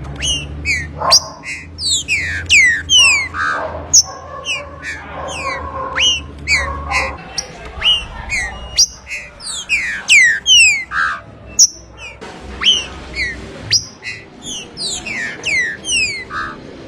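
Green-winged saltator (trinca-ferro) singing: a rapid, continuous series of loud whistled notes, each sweeping sharply downward in pitch.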